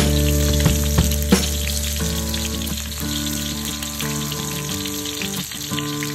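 Sliced shallots and garlic frying in hot oil in a wok: a steady sizzle, with background music underneath.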